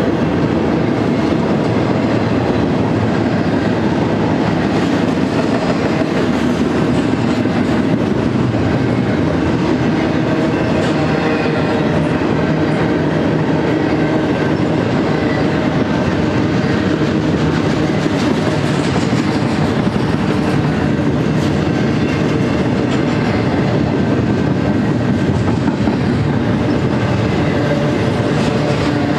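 BNSF double-stack intermodal train's well cars, loaded with shipping containers, rolling past: a steady, loud rumble of steel wheels on the rails.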